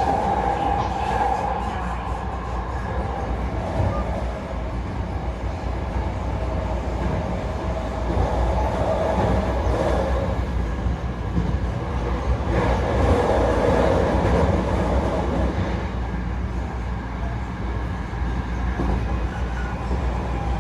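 Electric commuter train on the Hankyu Takarazuka Line running between stations: a steady rumble of wheels on the track, with a motor hum that swells and fades.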